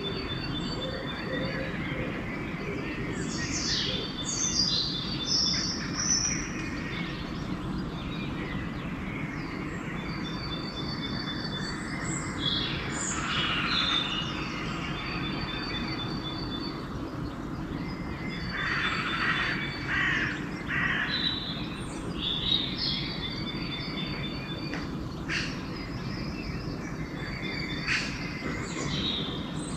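Dawn chorus of songbirds. One bird repeats a high, rapid trill of evenly spaced notes every several seconds, and others add short chirps and calls, over a steady low background noise.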